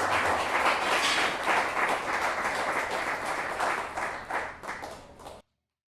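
Audience applauding and clapping after a live song. The applause thins out and fades, then cuts off abruptly near the end.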